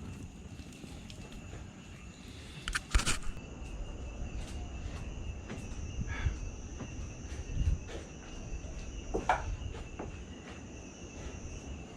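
Night insects, such as crickets, sounding a steady high-pitched trill, with a low rumble underneath. A few sharp knocks or handling sounds come through, the loudest about three seconds in.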